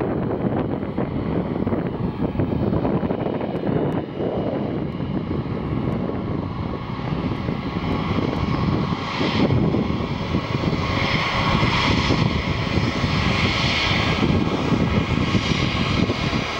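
Airbus A319's IAE V2500 turbofan engines running at taxi power: a steady rumble, with a high whine that comes in about nine seconds in and grows louder.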